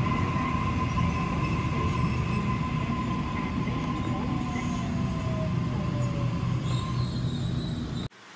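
Electric passenger train running, a steady rumble with a constant high squeal and a falling whine about four to six seconds in; it cuts off abruptly just before the end.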